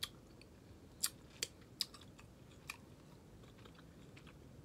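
Close-miked eating sounds: chewing with a few short, sharp wet mouth smacks, about five in the first three seconds.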